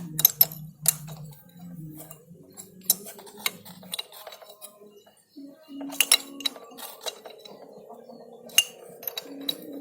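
Metal tools and engine parts clinking and clicking during hands-on work on a two-stroke motorcycle engine. The sharp metallic clicks come at irregular intervals, over a low steady hum.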